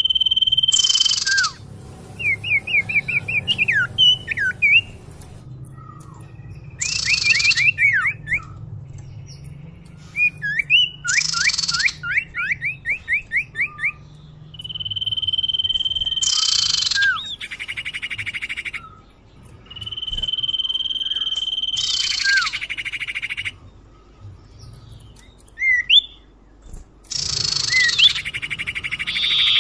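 Common iora (sirtu/cipoh) lure song, repeated over and over. Long steady whistles are each followed by a harsh, buzzy rasp and a short falling note, and they alternate with rapid runs of short rising chirps.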